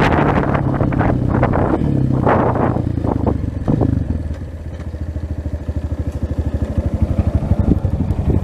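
230 cc trail motorcycle's single-cylinder engine running, then easing off about halfway through to a slower, even putter of firing pulses.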